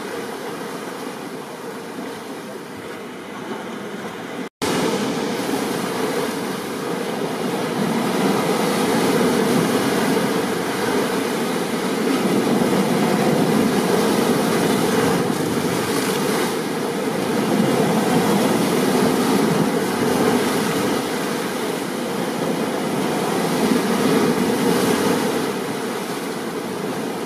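Ocean surf on a stormy beach: a steady wash of breaking waves that swells and eases every few seconds. The sound cuts out for an instant about four and a half seconds in, then returns louder.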